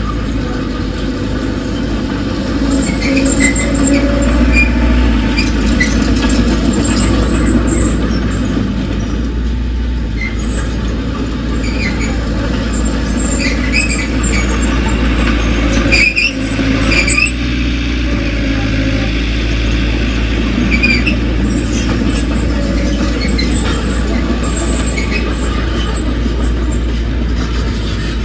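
Crawler bulldozer working, its diesel engine running steadily under load, with short high metallic squeals and squeaks from its steel tracks scattered throughout and a couple of clanks about two-thirds of the way through.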